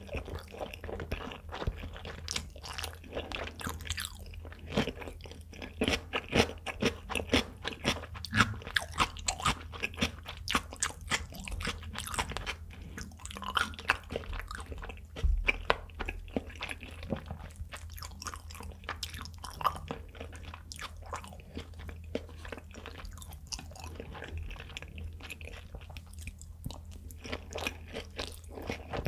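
Close-miked chewing of raw tuna nigiri sushi: a dense run of quick mouth clicks and smacks as the fish and rice are chewed, with a fresh bite taken near the end. A low steady hum runs underneath.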